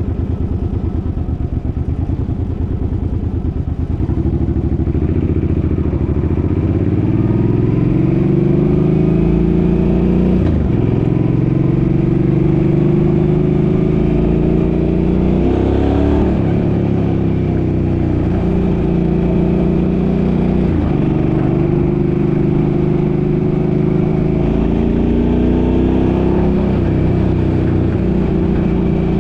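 A Suzuki's engine accelerating under way, climbing in pitch and dropping back at gear changes a little over ten seconds in, at about sixteen seconds and at about twenty-one seconds, then holding fairly steady at cruising speed.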